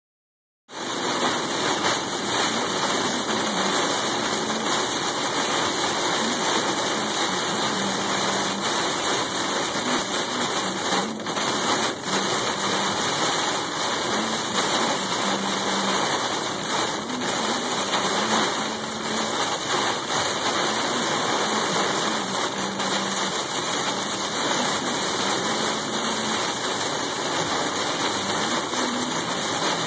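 Heavy rain and wind of a severe storm: a steady rushing hiss that comes in suddenly under a second in.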